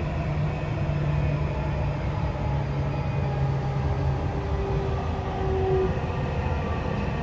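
Dubai Metro train running through a tunnel, heard from inside the car: a steady low rumble with a held hum that steps down in pitch a few seconds in.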